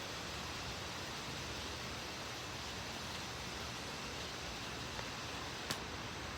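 Steady, even hiss of an outdoor thunderstorm, with one sharp click a little before the end.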